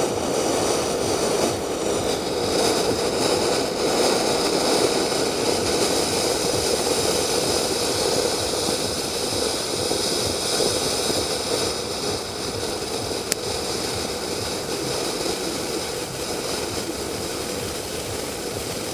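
Anar (flower-pot fountain firework) burning: a steady rushing hiss of its spark jet that eases a little toward the end, with a single sharp click about thirteen seconds in.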